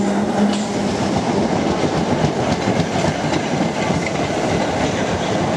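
Electric multiple-unit passenger train running past along the platform: a steady rumble of wheels on rail with scattered clicks as the wheels cross rail joints.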